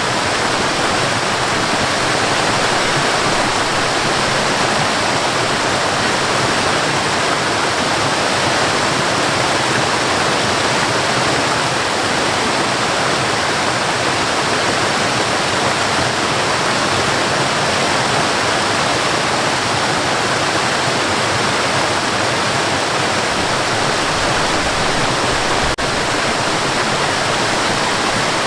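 Waterfall: water falling and rushing in a steady, unbroken roar, with a faint tick near the end.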